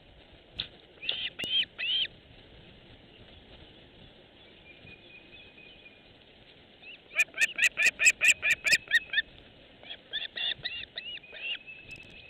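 A bird calling in quick runs of short, rising-and-falling notes: a few near the start, a fast run of about a dozen notes some seven seconds in, and a looser series toward the end.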